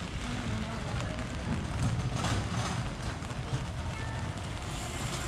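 Rain-shower street ambience: a steady hiss of rain with indistinct voices of passers-by.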